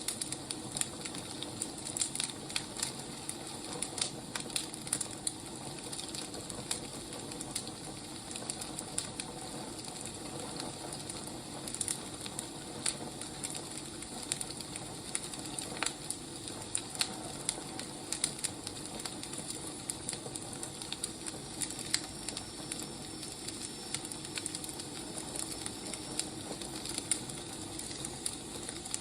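Wood fire burning: a steady hiss with irregular sharp crackles and pops from the burning logs.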